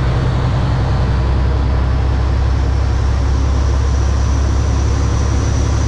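Kenworth W900 semi truck heard from inside the cab while driving: a steady low engine drone with road noise.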